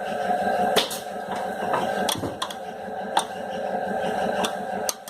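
Scattered sharp clicks and knocks of a hand wrench on metal bolts and nuts as a sewing machine motor is unbolted, over a steady background hum.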